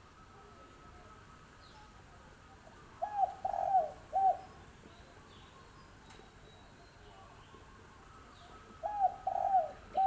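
Spotted dove cooing: two phrases of about three notes each, several seconds apart.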